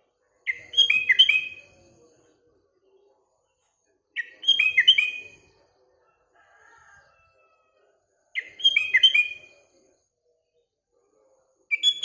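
Sooty-headed bulbul (kutilang) singing a short, bubbly phrase of quick falling whistles, repeated four times at even intervals of about four seconds. A faint, lower bird call sits between two of the phrases.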